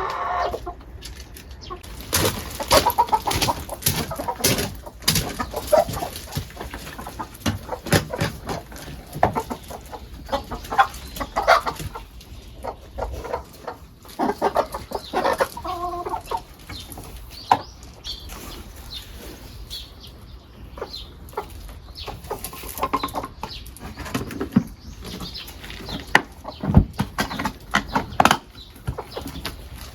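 Chickens clucking, among many short knocks and clatters.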